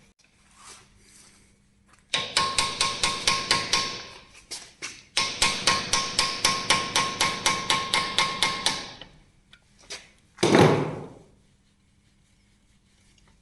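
Rapid hammer blows on steel, about seven a second, in two runs with a pause between, each strike ringing. Near the end comes one short, loud burst of noise that falls in pitch.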